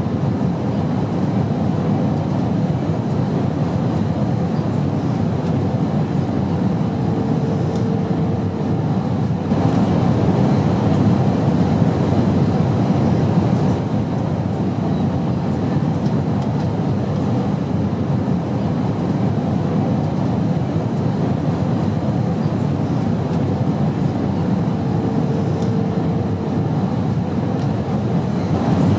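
Steady airplane noise: an even, unbroken low rumble and hiss, with a faint higher tone showing briefly twice.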